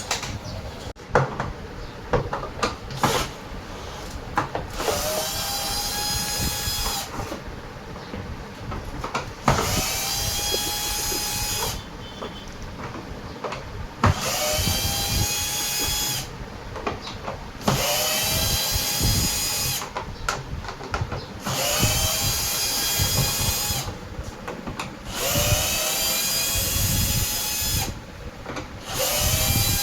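A power drill running in about seven short bursts of roughly two seconds each. Each burst spins up quickly and then holds a steady whine, with clicks and knocks of handling between the bursts.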